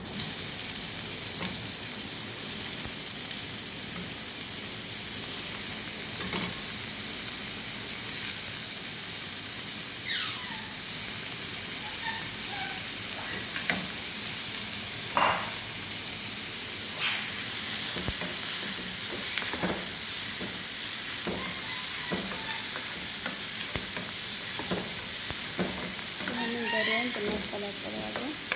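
Chicken hearts frying with onions in oil in a nonstick pan: a steady sizzle, with a wooden spatula stirring and knocking against the pan. The sizzle picks up as the hearts go into the hot pan at the start.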